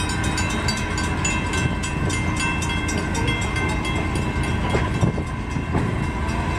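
Heritage passenger train rolling along, heard from an open car: a steady low rumble of wheels and running gear, with faint steady high-pitched tones above it.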